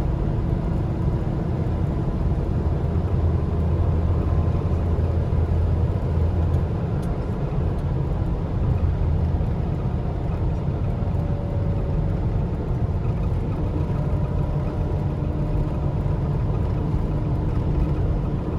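Steady road and engine noise of a car driving, heard from inside the cabin, with a deep rumble.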